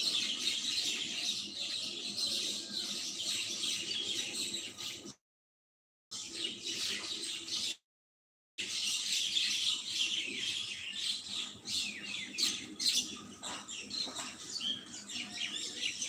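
Small birds chirping busily, with many overlapping high chirps, and the sound cuts out completely twice for about a second.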